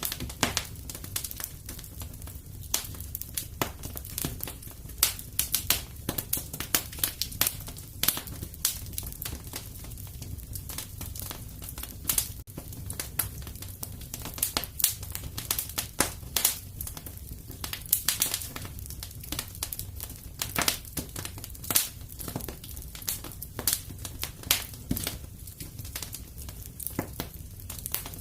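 Wood fire in a fireplace crackling, with frequent irregular sharp pops over a low, steady background.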